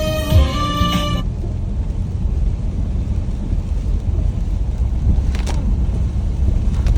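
Music with a steady beat that cuts off about a second in, followed by a steady low rumble.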